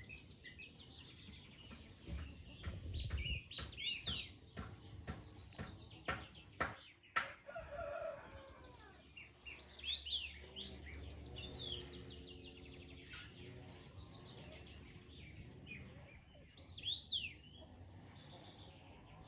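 Small birds chirping and twittering throughout, with a rooster crowing in the middle. A few sharp clicks come about five to seven seconds in.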